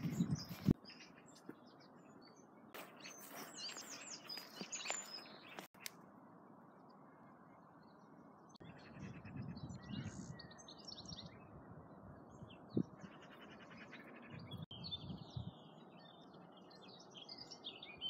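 Small songbirds chirping and singing in short, quick phrases, faint, over a low steady outdoor rumble.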